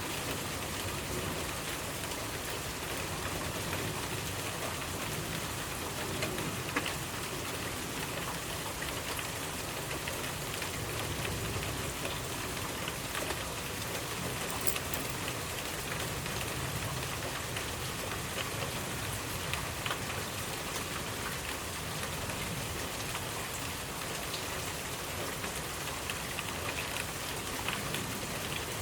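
Steady rainfall, an even hiss of rain with individual drops tapping on surfaces.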